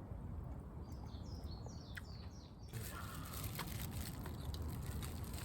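A small songbird singing a quick run of short, falling chirps for about a second and a half, over a steady low rumble of wind on the microphone.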